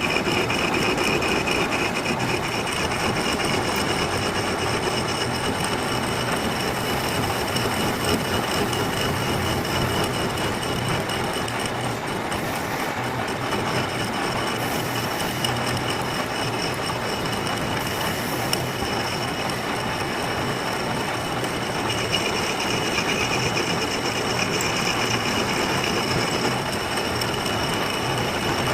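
Metal lathe running steadily while its tool cuts a coupling, a continuous machine noise with a thin, steady high whine over it.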